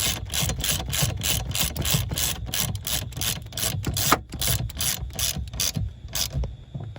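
Socket ratchet with a 15mm socket clicking as it tightens a nut on the steering column's tilt mechanism, about four to five clicks a second, stopping about six seconds in.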